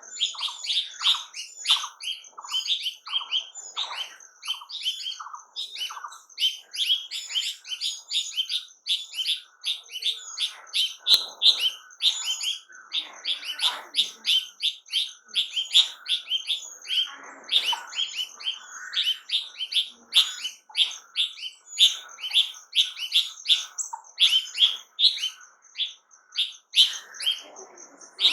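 Songbirds chirping rapidly and continuously, several short chirps a second, with a thin steady high note held under them.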